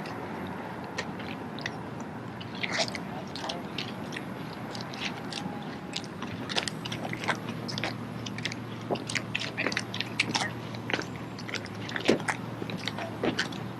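A scatter of short, sharp clicks and scuffs at an irregular pace, growing busier in the second half: the footsteps and rifle handling of a drill team at practice.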